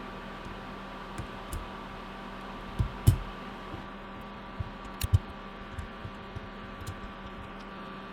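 Small clicks and taps of Mill-Max sockets being placed into a keyboard PCB with tweezers, over a steady electrical hum. The two loudest knocks come about three and five seconds in.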